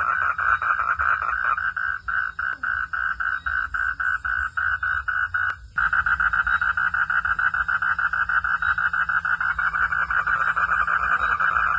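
Frogs calling at night in a continuous fast pulsing trill, with a low steady hum underneath. The sound breaks off for a moment about halfway through, then resumes.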